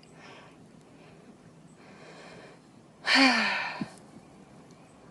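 A woman's breathing, faint at first, then about three seconds in a short, louder breathy exclamation that falls in pitch, like a gasp or sigh.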